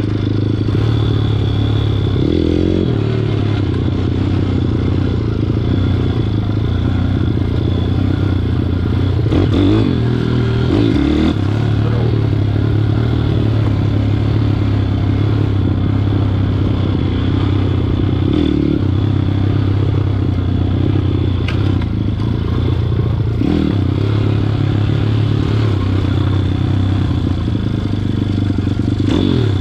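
WPB 160 pit bike's single-cylinder engine running while being ridden. Its note holds mostly steady at a constant speed, with a few brief dips and rises as the throttle and gears change.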